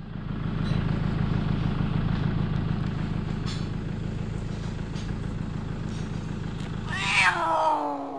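Motorcycle engines idling with a steady, fast-pulsing low rumble. About seven seconds in, a louder pitched sound glides downward for over a second.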